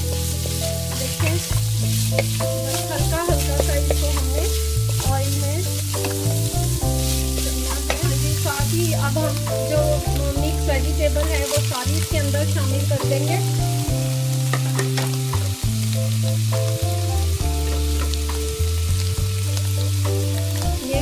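Chopped vegetables sizzling in oil in a pan, stirred with a wooden spoon, with scattered scrapes and ticks from the spoon. Background music with held low notes plays along.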